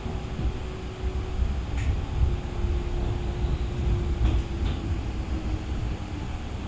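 Tram running, with a low rumble and a steady hum, and a few sharp ticks around two seconds and four to five seconds in.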